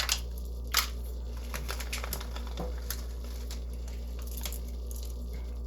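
Two sharp clicks in the first second, then faint scattered ticks and light rustling from small objects being handled, over a steady low hum.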